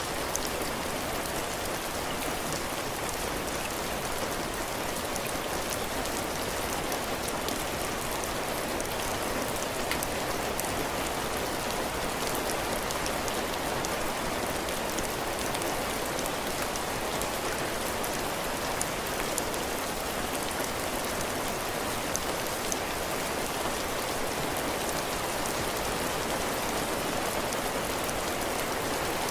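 Heavy rain falling steadily on a cabin porch roof and floor, a dense even patter with individual drops ticking through it.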